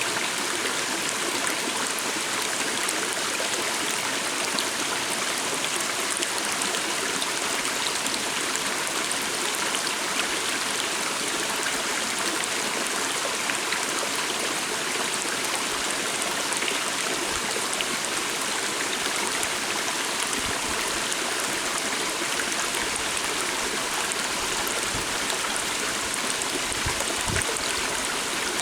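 A water stream running steadily, an even rushing and trickling of water.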